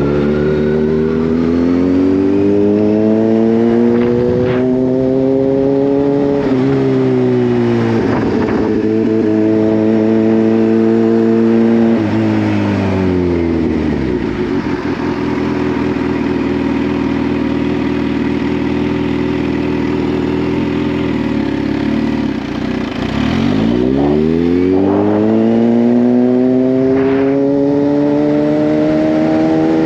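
Kawasaki Z H2's supercharged inline-four accelerating through the gears: revs climb and step down with upshifts about four and six seconds in, then hold steady. About twelve seconds in the revs fall as the bike slows, and the engine runs low and steady for several seconds. It then climbs hard from low revs near the end.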